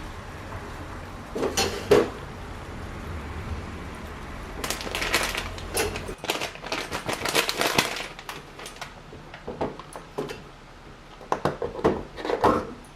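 Small objects being handled on a work surface: a few sharp knocks and clicks, a stretch of scraping and rustling in the middle, then another cluster of clicks near the end.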